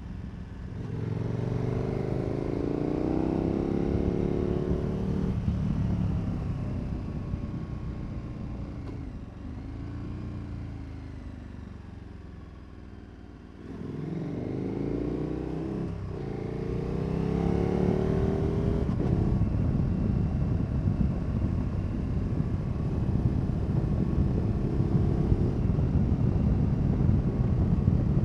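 KTM 1290 Super Adventure S's V-twin engine through an aftermarket Wings exhaust, accelerating through the gears with rising pitch and gear changes, easing off and going quieter, then accelerating again about halfway through. It then holds a steady speed.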